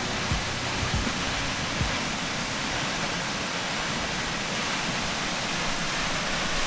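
Waterfall: a steady, even rush of falling water, with a few soft low thumps in the first two seconds.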